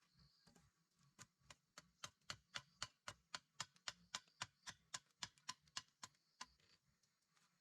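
A quick, even series of light, sharp taps, about three or four a second, starting about a second in and stopping shortly before the end.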